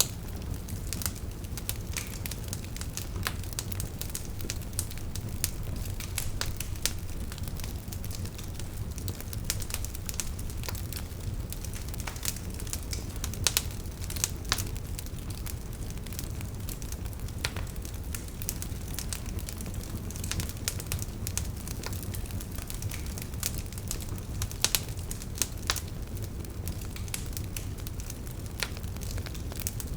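Wood fire burning: a steady low rumble of flames with frequent sharp, irregular crackles and pops from the logs.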